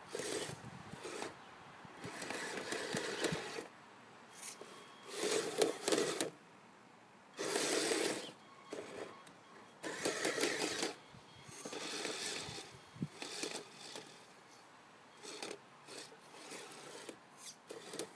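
Radio-controlled Kyosho Blizzard SR snowcat running its electric drive in short bursts, the motor and gearbox whirring and the tracks and blade scraping through snow, starting and stopping over and over as it is driven back and forth.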